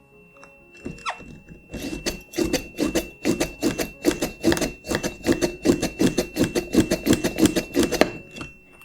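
Hand vacuum pump of a cupping set worked rapidly, a fast run of rasping pump strokes about four a second that stops near the end. Under it, a steady high-pitched tone from a buzzer sealed under the partly evacuated cup.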